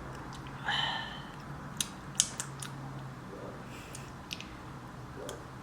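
Kitchen handling noises: a brief squeak about a second in, then a series of sharp clicks and a few soft knocks, over a low steady hum.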